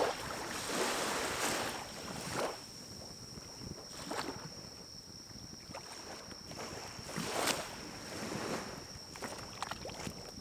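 Pine cones burning in a small wood-burning stove: crackling with sharp pops, and several swelling bursts of rushing noise lasting about a second each.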